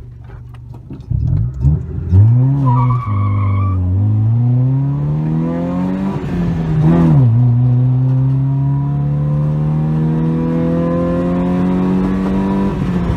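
Early-2000s Honda Civic's naturally aspirated single-cam four-cylinder, with a five-speed manual, under hard acceleration heard from inside the car. The revs climb, drop at upshifts about three and seven seconds in, then rise steadily through a long pull. There is a brief squeal about three seconds in.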